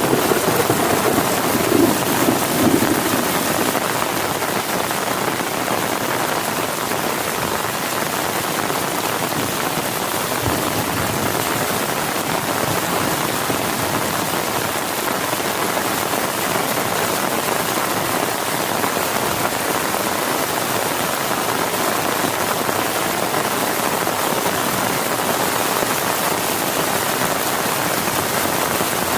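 Heavy rain falling steadily. In the first few seconds the tail of a low thunder rumble fades away.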